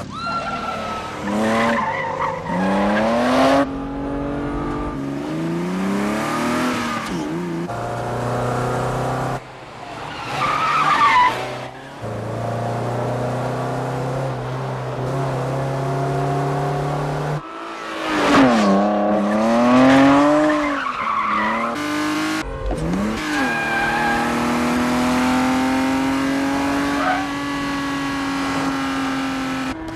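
Car engines revving hard at speed, their pitch climbing and dropping with each gear change, with tyres squealing at times. The sound breaks off suddenly several times and picks up again.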